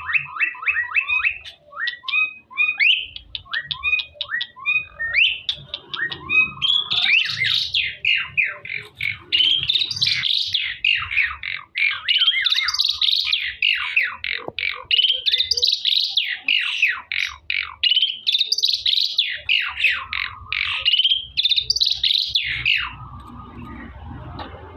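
Jalak jawa (Javan myna) singing: first a string of short, repeated rising chirps, then from about seven seconds a loud, fast, varied warbling song full of quick whistles and chatters, which stops shortly before the end.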